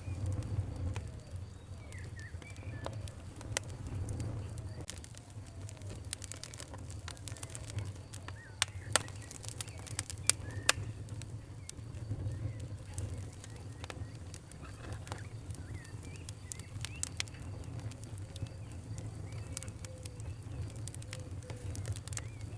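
Wood fire crackling: irregular sharp pops over a steady low rumble, with a cluster of louder pops about halfway through. Faint bird calls chirp in the background.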